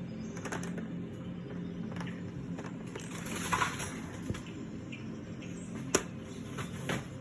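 Cockatoos playing in their cage: scattered small clicks and taps, with a brief rasping noise about three and a half seconds in and one sharper click about six seconds in, over a low steady hum.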